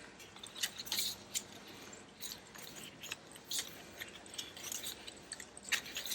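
Paper rustling with small irregular taps and crinkles as handmade journal pages and paper pieces are handled and turned.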